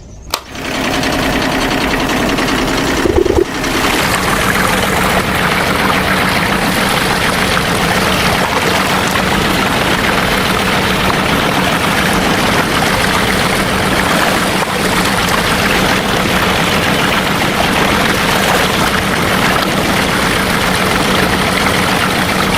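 Small motor running steadily, with a brief break about three seconds in.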